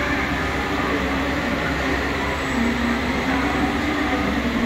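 A passenger train standing at a station platform gives a steady, even rumble and hum, with no sudden sounds.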